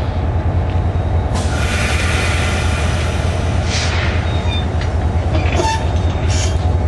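Train running with a steady low diesel rumble. A hiss starts about a second and a half in and lasts about two and a half seconds, and a few short, sharper sounds follow near the end.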